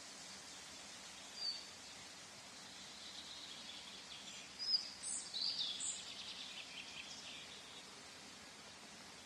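Outdoor ambience: a steady background hiss with birds chirping, one short chirp about one and a half seconds in, then a run of high chirps and trills around the middle.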